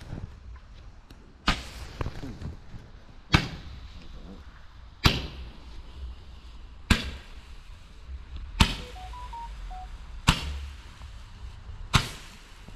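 Roman candle firing its shots one after another: a sharp pop about every second and three-quarters, seven in all.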